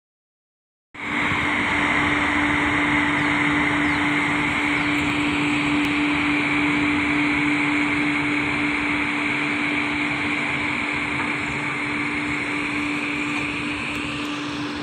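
Goods train's covered wagons rolling past close by: a steady loud rolling noise with a steady hum and a higher whine running through it, which rises slightly near the end. The sound comes in suddenly about a second in.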